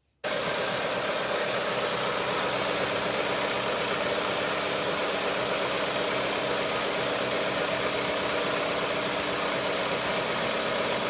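Car engine running at a steady speed, an even unchanging drone that cuts in abruptly just after the start.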